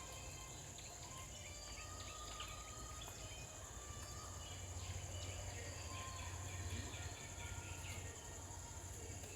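Outdoor ambience: a steady high-pitched insect drone, with short bird chirps scattered through it over a low rumble.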